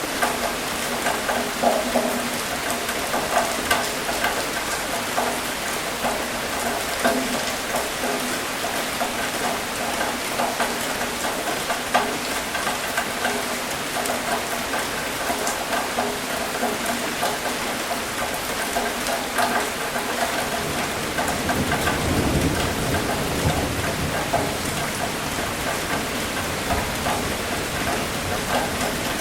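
Steady rain falling on a hard surface, with many separate drops ticking. A low rumble of thunder swells for a few seconds about three quarters of the way through.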